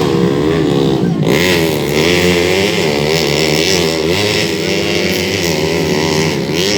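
130cc underbone motorcycle engines racing, several bikes revving up and down as they are ridden around the track.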